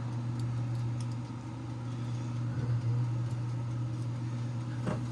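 A steady low mechanical hum, like an appliance motor running, with a few light clicks near the end.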